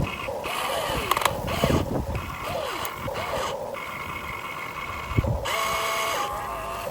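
Huina 1592 RC excavator's small electric motors whining, rising and falling in pitch as the boom, arm and bucket move. A few sharp knocks come in between, louder about a second in and about five seconds in.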